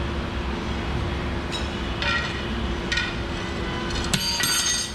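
Metal clinking and ringing, a few separate strikes and then a quick run of clanks near the end, over a steady low hum.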